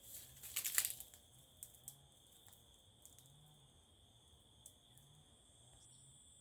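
Crickets or similar insects trilling steadily at two high pitches. A loud crackling rustle comes in the first second, followed by a few scattered faint clicks.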